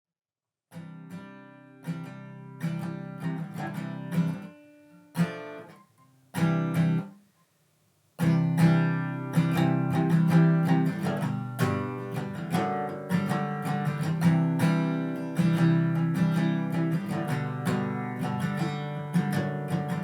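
Acoustic guitar strumming chords: a few separate strums that ring out, a short break, then steady rhythmic strumming that cuts off suddenly at the end.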